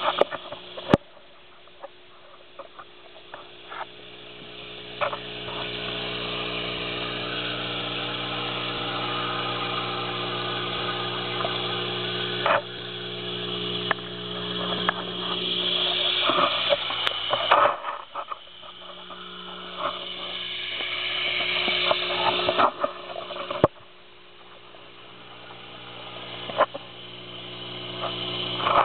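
Sound picked up by a waterproof camera submerged in a fish tank: a steady low hum from the aquarium's equipment under a rushing water noise that swells and fades several times, with a few sharp knocks.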